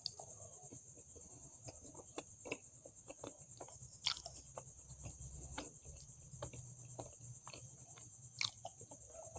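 Close-miked chewing of soft fried bread and potato curry: wet mouth smacks and small clicks a few times a second, louder ones about four seconds in and near the end. A steady high hiss runs behind.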